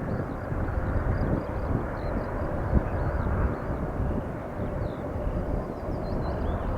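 Lockheed C-5M Super Galaxy's four turbofan jet engines running, a steady rumble.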